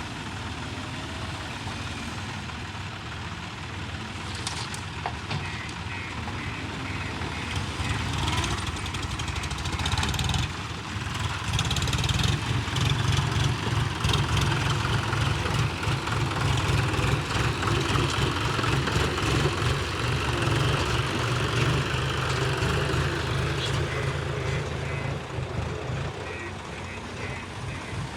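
Heavy diesel engine of earthmoving machinery running, growing louder and heavier under load about a third of the way in and easing again near the end, with a few short knocks in the first part.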